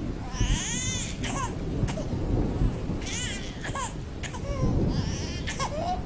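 Several short, high-pitched wavering cries whose pitch bends up and down, over a steady low rumble.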